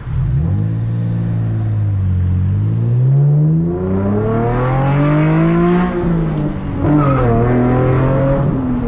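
V6 Camaro engine with its muffler deleted, accelerating hard: the revs climb for a few seconds, drop sharply at a gear change about six seconds in, then the engine pulls on steadily at lower revs.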